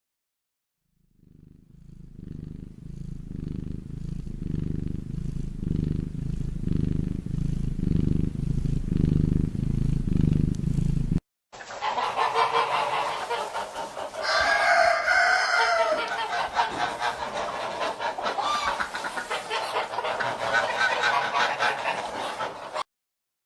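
A low, rhythmic sound pulsing about once a second fades in, from an unidentified animal. Then, after a sudden cut, chickens cluck, with one louder drawn-out call a few seconds into the clucking.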